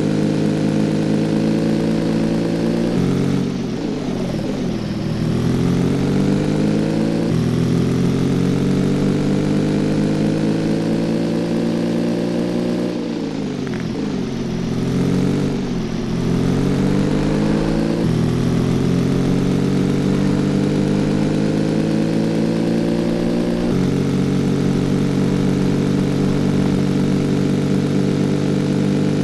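Cafe racer motorcycle engine running under way, its pitch holding or creeping up and stepping suddenly at gear changes. Twice the engine note sinks as the throttle is eased, then climbs again.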